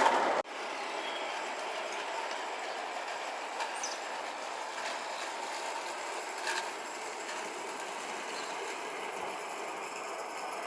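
Scratch-built live-steam model of a Darjeeling Himalayan Railway Sharp Stewart Class B locomotive running with its rake of carriages on a garden railway: a steady even noise with a few light clicks. A louder sound cuts off abruptly about half a second in.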